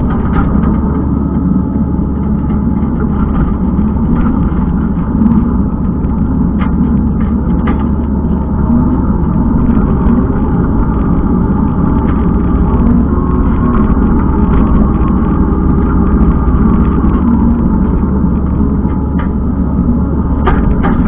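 Kubota skid steer's diesel engine running steadily under load, with occasional sharp clanks and knocks from the machine working.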